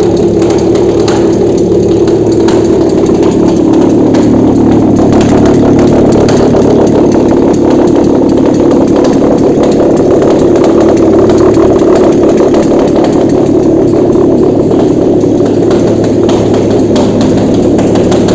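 Nissan VQ35DE 3.5-litre V6 engine running steadily and loudly on a test stand, out of the car, being checked as a used engine.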